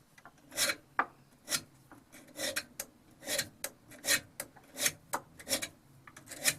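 Short scraping strokes of a small file worked by hand against the cutting edge of a vintage auger bit, sharpening a dull bit; about two strokes a second, uneven in rhythm.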